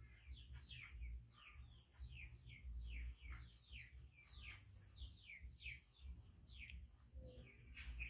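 Faint bird chirping: a steady series of short, falling chirps, about two a second, over a low rumble.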